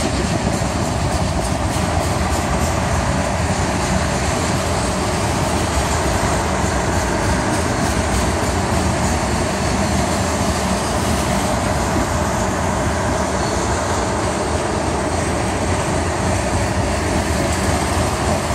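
Freight train tank cars rolling past, a steady loud rumble of steel wheels on the rails.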